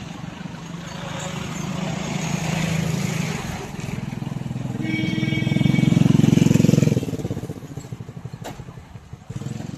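A vehicle passing close by, building to its loudest about six to seven seconds in with a high tone over it, then fading.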